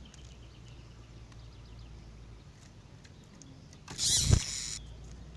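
Faint, quick, high chips of a bird, typical of a female double-collared seedeater calling, over a low hum. About four seconds in comes a sudden loud whoosh lasting just under a second, with a tone falling steeply in pitch.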